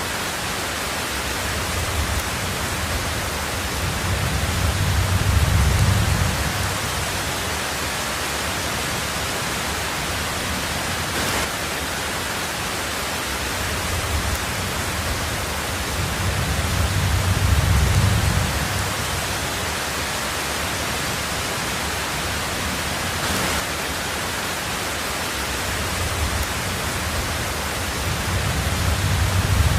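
Steady heavy rain on a tin roof, an even hiss. Three low rolling rumbles of thunder rise and fade under it, each over a few seconds, about twelve seconds apart.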